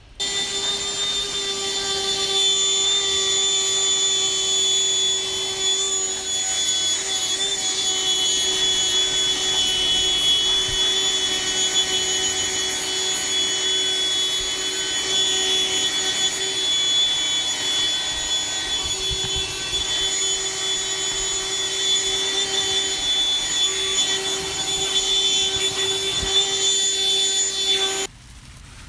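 Mini handheld vacuum running steadily with a whining motor, sucking up grinding shavings and dust. It starts abruptly and cuts off near the end.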